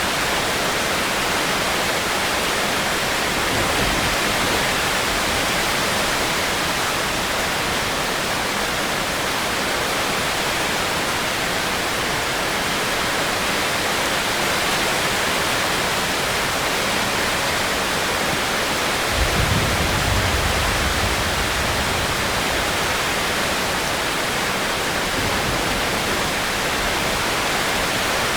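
Steady rain, an even hiss, with a low rumble that rises about two-thirds of the way through and fades over a few seconds.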